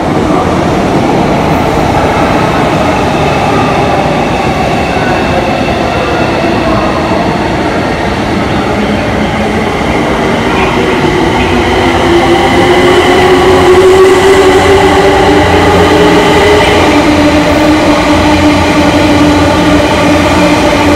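JR East E257 series 0 electric multiple unit passing through a station at speed without stopping. A steady rumble of wheels on rail builds as it approaches and is loudest about 14 seconds in as the cars rush past, with a motor hum that shifts in pitch as they go by.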